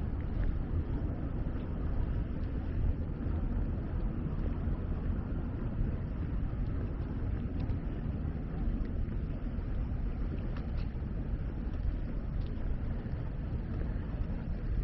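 Steady low rumble of outdoor city ambience, with a few faint clicks over it.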